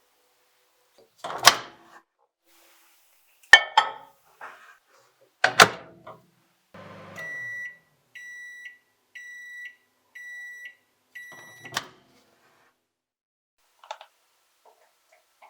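Microwave oven: several sharp knocks and clunks of the door and a dish, then five long electronic beeps of one pitch about a second apart, the oven's end-of-cycle alert, followed by the click of the door opening.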